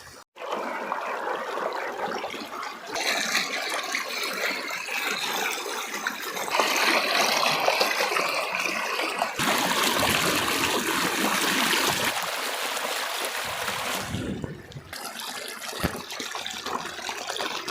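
Water of a small monsoon stream rushing and splashing over its bed, a steady rush whose loudness jumps abruptly several times as the shots change.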